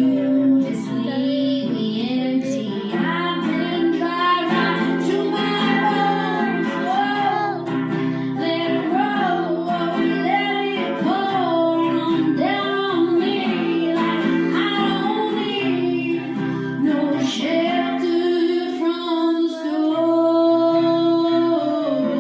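Female voice singing a gliding melody over acoustic guitar, with no clear words, and steadier held notes near the end.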